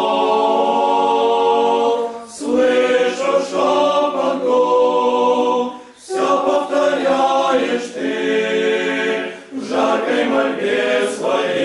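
Male seminary choir singing a cappella, a slow spiritual verse in held chords, with brief breaks between phrases about two, six and nine and a half seconds in.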